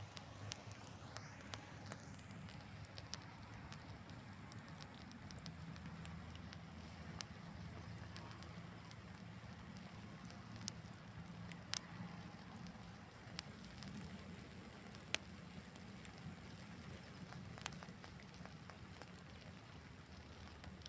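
Wood fire crackling quietly, with scattered sharp pops.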